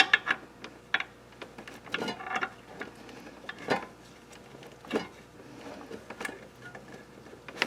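Scattered light clicks and taps of small parts being handled as a plastic ferrule is pressed into an engine timing cover, with a few sharper knocks about two, four and five seconds in.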